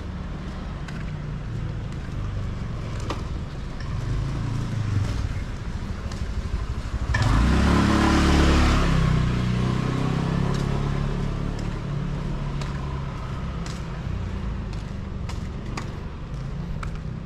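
Street traffic rumbling, with a motor vehicle passing close by about seven seconds in; its engine note falls as it goes past and fades.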